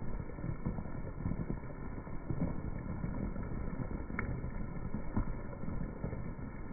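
Heavy rain pattering on wet brick pavement, slowed down with the slow-motion footage so it sounds deep and dull, a dense mass of low, irregular drop hits. One sharper tick stands out about four seconds in.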